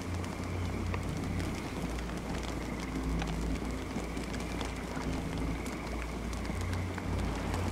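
Campfire burning with frequent small crackles and pops over a steady low rumble of flames.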